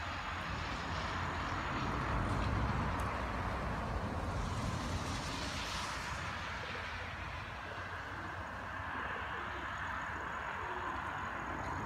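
Steady hiss of moderate rain with a low rumble underneath; a louder hiss swells and fades about four to six seconds in.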